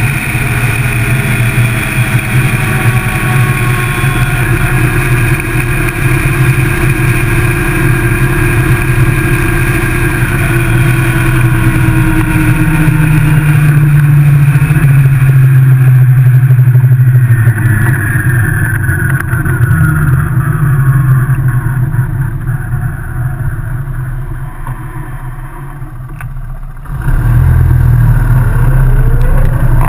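Motorcycle engine running while riding, with wind and road noise. About two-thirds of the way through the level falls off and the engine pitch sinks as it slows. Near the end the engine and wind noise jump back up abruptly.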